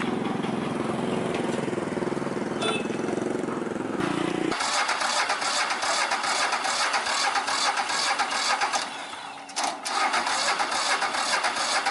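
An engine running steadily. About four and a half seconds in it gives way abruptly to a loud, harsh, rattling hiss of machinery, which drops out for a moment near ten seconds and then resumes.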